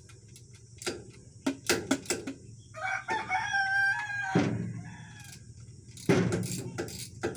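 A rooster crows once, about three seconds in, for about a second and a half. Several sharp knocks come before and after it.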